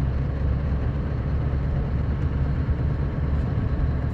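A sanding truck's engine and road noise heard from inside the cab while driving: a steady low rumble.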